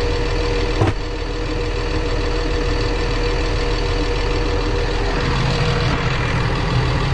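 An engine idling steadily, with a single knock about a second in and a deeper hum joining near the end.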